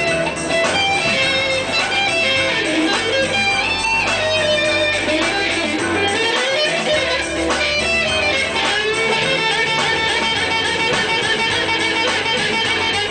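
Guitar music: an electric guitar plays a melody with notes bent up and down in pitch, over a steady bass line.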